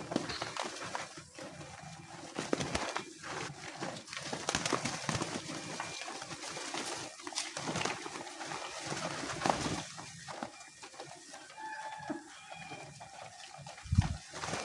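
A flock of homing pigeons calling and moving about, with many short clicks and scuffs throughout. A single low thump near the end.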